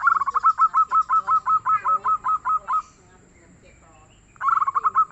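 Zebra dove (perkutut) calling: a fast run of short, hooked notes, about six a second, for nearly three seconds, then a second, shorter run starting about four and a half seconds in.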